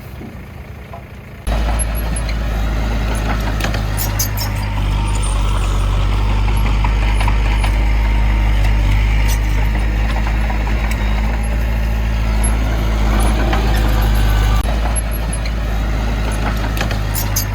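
Heavy diesel engine of earthmoving machinery running steadily under load, with scattered sharp clicks and clanks over it. It comes in abruptly about a second and a half in.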